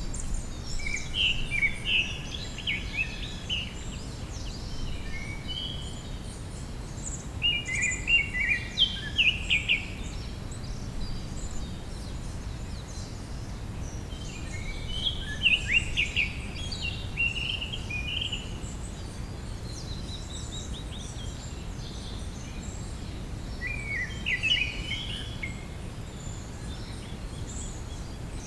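A songbird singing four short bursts of quick, jumbled chirping phrases, several seconds apart, over a steady low background rush.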